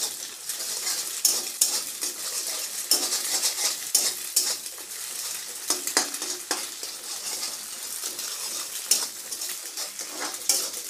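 Food frying in oil in a metal kadhai, with a steady sizzle, while a spatula stirs and scrapes against the pan in irregular strokes.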